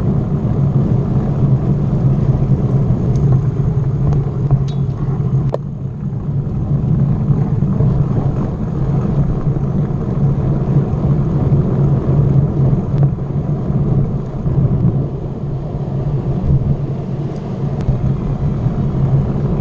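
Steady rumble of wind and road noise on the microphone of a moving bicycle, with a few faint clicks and rattles.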